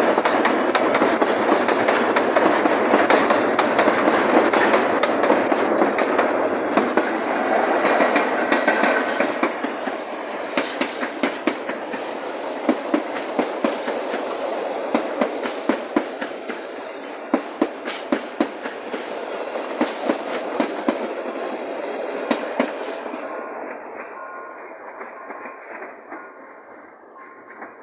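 Freight train of mostly empty boxcars rolling past, wheels clacking over the rail joints in a steady rhythm. The rumble is loud at first, then thins to distinct clacks and fades away as the last wagons pull off.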